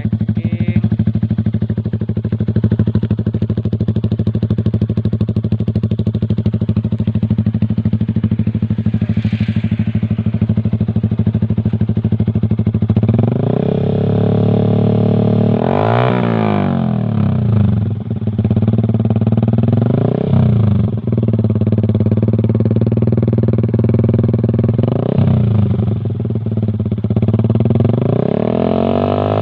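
Yamaha MX King's single-cylinder four-stroke engine running through an aftermarket CLD Monster racing silencer, idling steadily for about thirteen seconds, then revved in four throttle blips that each rise and fall back to idle.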